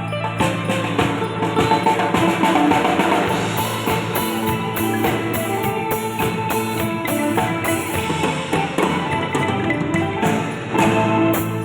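An Isan pong lang folk ensemble playing: wooden xylophone notes over drums and other percussion.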